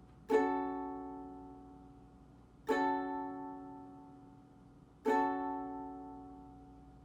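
Ukulele strummed down on a Gbm chord three times, about two and a half seconds apart, each chord left to ring and fade.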